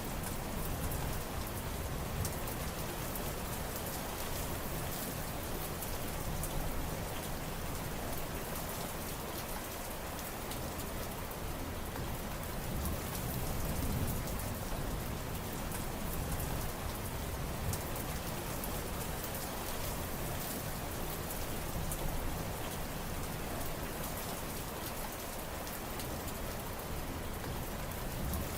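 Steady heavy rain, with individual drops ticking over a continuous hiss and a low rumble underneath that swells and eases.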